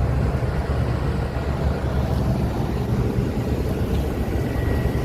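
Air-conditioning unit running: a steady low mechanical hum with fan rush. A faint thin high tone comes in near the end.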